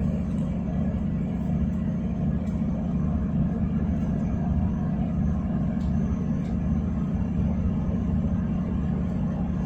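Steady low rumble of a train running, heard from inside the carriage, with a couple of faint clicks about six seconds in.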